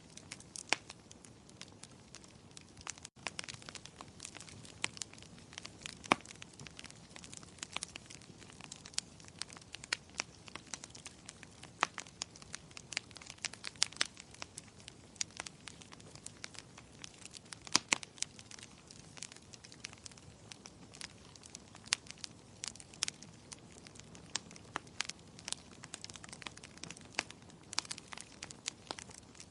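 Wood fire in a fireplace crackling, with many sharp irregular pops and snaps, a few louder than the rest, over a faint steady hiss.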